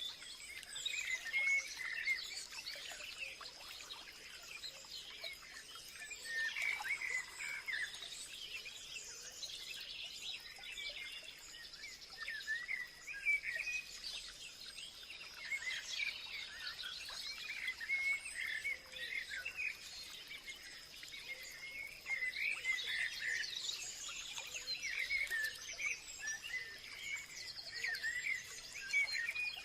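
Chorus of many small songbirds chirping and singing at once, with overlapping quick high warbles. A steady thin high tone runs underneath.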